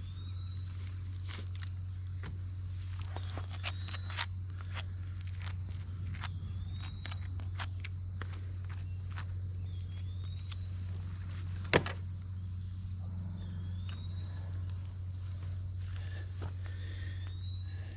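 Steady high-pitched chorus of crickets, over a low steady hum, with scattered light clicks and one sharper knock about twelve seconds in.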